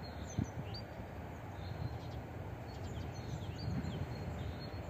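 Small birds chirping over and over in quick, short calls that sweep downward in pitch, over a steady low rumble.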